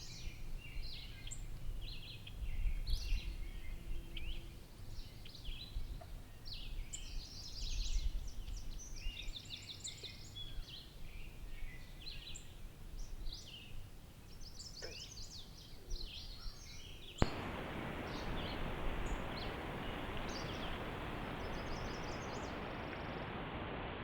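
Small birds chirping and trilling in short repeated phrases over a low outdoor rumble. About 17 seconds in, this cuts off suddenly and is replaced by a steady, even hiss.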